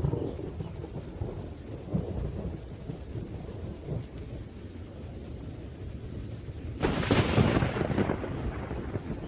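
Thunderstorm: low rolling thunder rumbles under steady rain, then a sharp, loud thunderclap breaks about seven seconds in and rolls away over a second or so.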